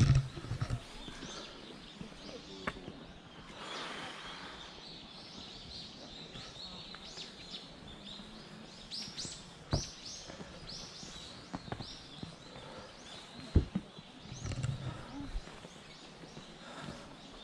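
Small birds chirping in woodland: many short, quick calls that rise and fall, busiest in the middle. A few sharp knocks stand out, the loudest about two-thirds of the way through, over faint voices of people walking.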